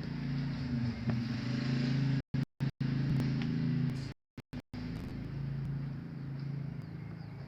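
An engine running steadily at one pitch, with the sound cutting out completely several times around the middle.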